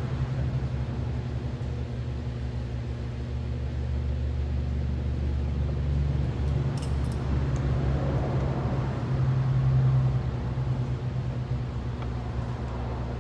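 Steady electrical hum of a running machine, a low drone built on the mains frequency and its multiples, with a couple of light metallic clinks about seven seconds in.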